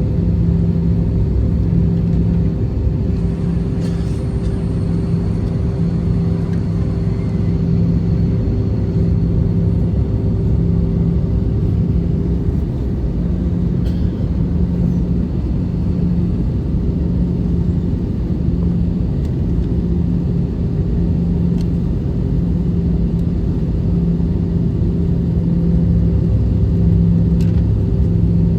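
Steady cabin noise of an Airbus A320-214 with its CFM56 engines: an even, low engine and airflow rumble with a steady hum and a few faint clicks.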